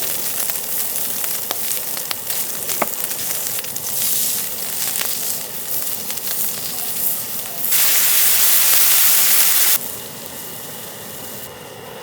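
Sausage and onion frying on a hot camping griddle: a steady sizzle with small crackles and pops. About eight seconds in, a much louder hiss takes over for about two seconds and then cuts off suddenly.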